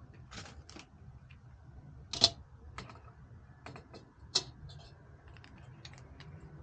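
Irregular light clicks and taps of small hard parts being handled, with two sharper clicks about two and four seconds in, over a low steady hum.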